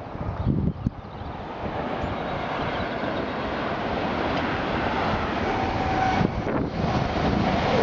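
A train running through the station: a steady noise that builds over the first couple of seconds and then holds loud.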